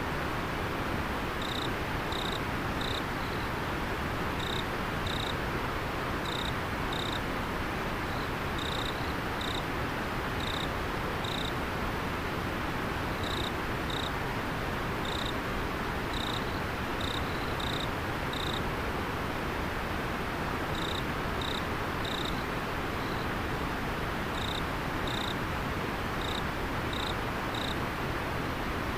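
River water flowing steadily, with an insect chirping over it in short high notes. The chirps often come in pairs, in runs of several a second, broken by brief pauses.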